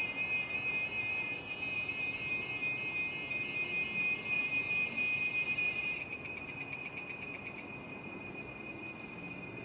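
A cricket trilling steadily at a high pitch. About six seconds in, the trill breaks into fast pulses, then settles back into a steady, slightly quieter trill.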